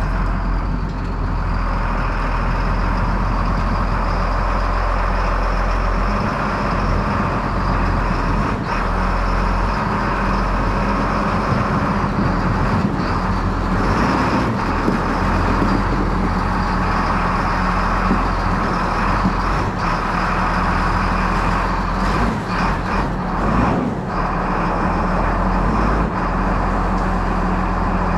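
Vehicle engine running steadily at a constant speed.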